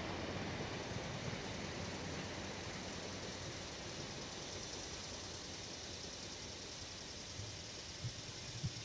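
Amtrak passenger train receding, its rumble fading slowly into a steady hiss. Two short thumps near the end.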